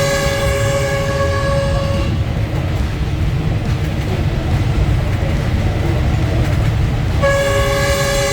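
Locomotive horn sounding a steady chord, cutting off about two seconds in and sounding again about a second before the end, blown for road crossings over the line. Under it the train's low running rumble goes on throughout.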